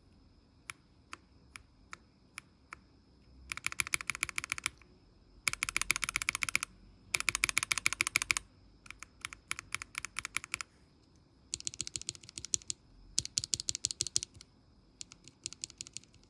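Lubed Chick linear mechanical keyboard switch being pressed: a few single clacks, then repeated bursts of rapid presses about a second long each.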